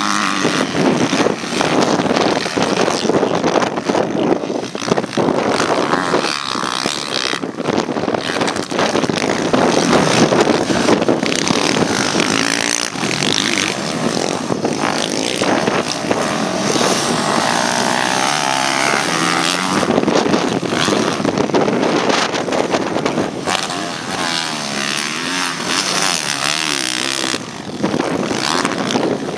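Motocross dirt bikes racing, their engines revving up and down in pitch as they ride the track.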